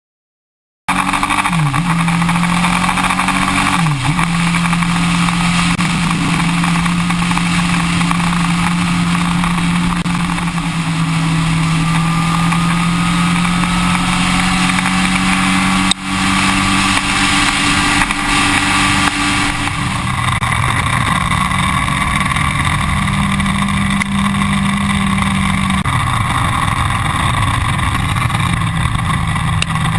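Yamaha R1 inline-four sport bike engine running steadily at speed. The sound starts suddenly about a second in. The engine note dips briefly twice in the first few seconds and then holds steady, with a constant hiss of noise over it.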